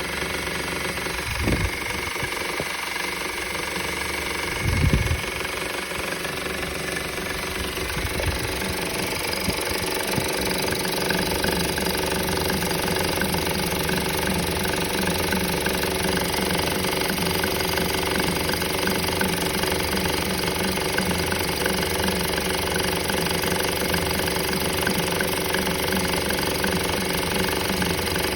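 2013 Honda Civic engine running with a persistent rattling noise that a new belt tensioner and drive belt have not cured. Two dull low thumps come in the first few seconds, and the rattle grows denser and steadier from about a third of the way in.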